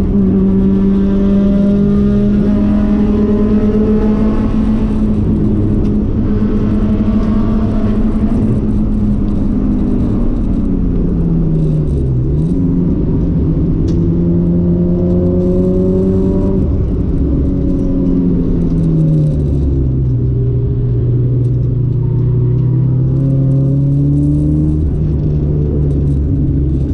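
1994 Nissan Sentra SE-R's SR20VE 2.0-litre four-cylinder engine under hard track driving: held at steady high revs for the first ten seconds, the revs drop sharply and climb back about twelve seconds in as the car slows for a turn, then rise and fall through the following corners.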